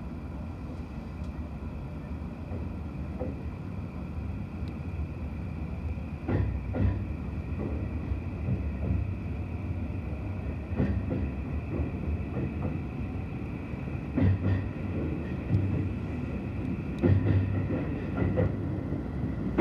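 An E235 series electric commuter train running, heard from inside the car: a steady rolling rumble with a faint high whine, and the wheels clacking over rail joints and points several times at irregular intervals.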